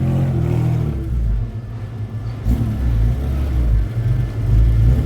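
Car engine running at low speed, a steady low rumble with a clearer engine note in the first second.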